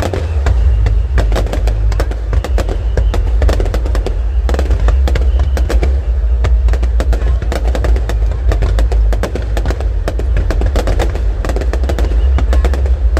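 Fireworks display: a dense, continuous run of aerial shell bangs and crackling reports, many overlapping, over a deep steady rumble.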